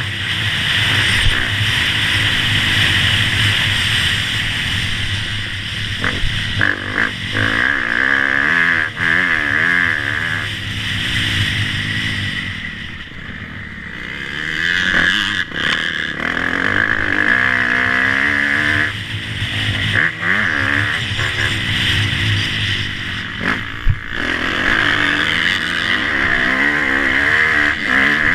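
Motocross motorcycles running on the track, engines revving up and down, with a brief lull about halfway through.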